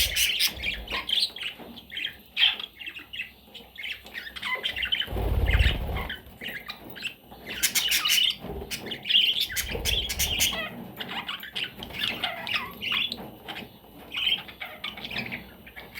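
Budgerigars chattering and squawking: a busy, continuous run of short varied calls and warbles, with a few quick high trills. There is a brief low rumble about five seconds in.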